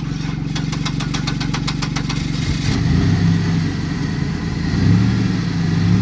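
Car engine running with a fast, even ticking for the first two and a half seconds, then its note rising twice, around three and five seconds in.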